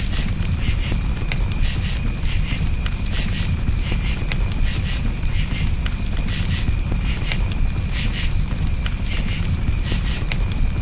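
Crickets chirping in steady rapid pulses over a crackling campfire, with scattered sharp pops and a low steady rumble from the fire.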